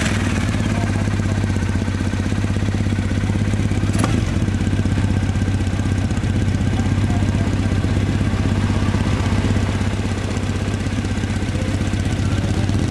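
Triumph Bonneville parallel-twin engine idling steadily after start-up, with one sharp click about four seconds in.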